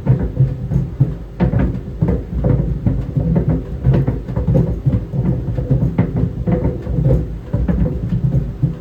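Tennis balls tumbling in a running clothes dryer: dull, unevenly spaced thumps, several a second, over the steady hum of the dryer.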